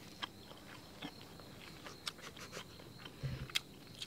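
Faint close-up chewing of a soft, chewy mouthful of cheese-topped crab: scattered small wet mouth clicks, with a brief low hum about three seconds in.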